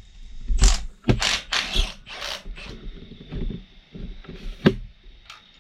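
Ratchet wrench clicking in short runs as bolts are loosened on a Ford 4.6 3V engine's water pump, with one sharp metallic click near the end.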